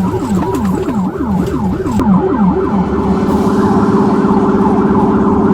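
Police car siren sounding loudly in a fast yelp, sweeping up and down about three times a second, then switching about three seconds in to a rapid, steady warble.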